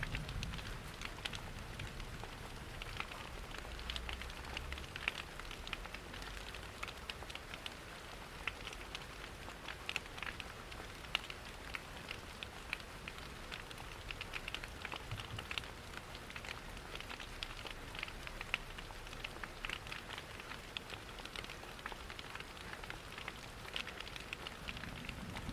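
Rain falling steadily, mixed with a crackling wood fire in a fireplace: an even hiss of rain dotted with many small sharp crackles and pops.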